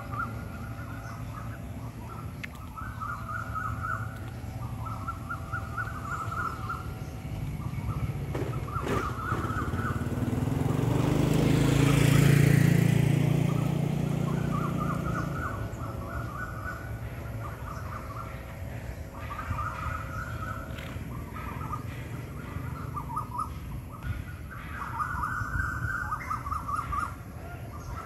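Birds singing, one repeating the same short call phrase over and over. About ten seconds in, the rumble of a passing engine swells to become the loudest sound, then fades.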